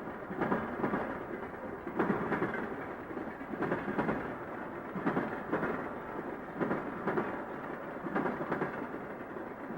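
Freight train cars rolling over a railroad diamond crossing, the wheels clacking in pairs about every one and a half seconds over a steady rumble.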